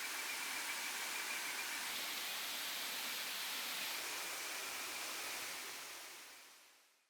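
Steady rushing of a tall waterfall, an even roar of falling water with a faint high steady tone in the background, fading out near the end.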